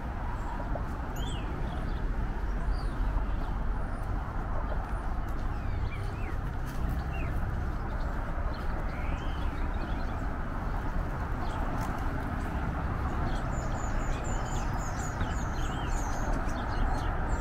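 Small birds chirping in short, scattered calls, busier near the end, over a steady low background noise of the outdoors.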